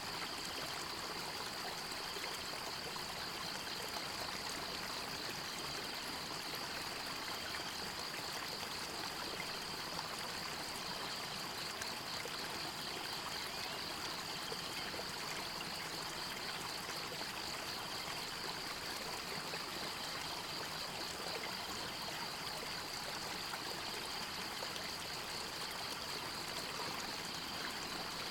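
River water flowing steadily, an even rushing and trickling that never lets up. Over it runs a steady, high-pitched, fast-pulsing trill.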